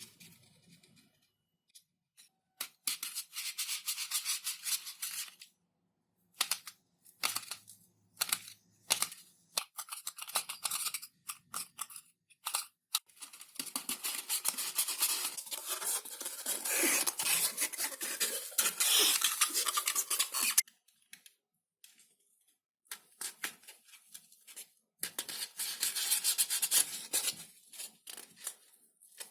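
Hand tools working thin XPS foam sheet in several bursts of rapid, scratchy strokes, the longest lasting about six seconds from roughly halfway in, with short clicks and pauses between.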